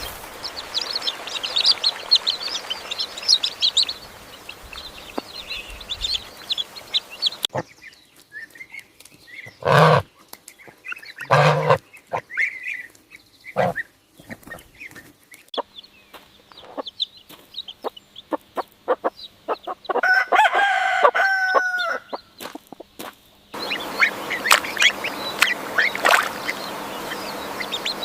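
Chickens clucking, with a rooster crowing once, and busy high chirping at the start and near the end. The background changes abruptly a few times, as separate clips are cut together.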